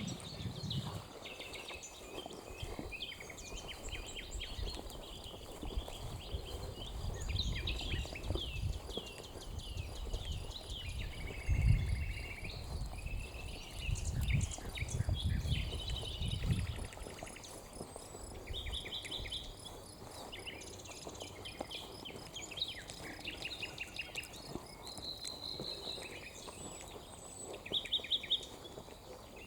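Several wild songbirds chirping and twittering over one another in a busy mixed chorus, with a faint, even, high trill running underneath.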